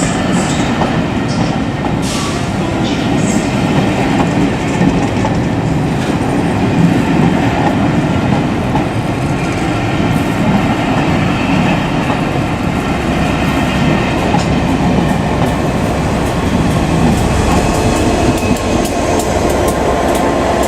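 A Pullman train hauled by Class 67 diesel locomotives rolling out of the station, its wheels clicking over the rail joints over a steady, loud rumble.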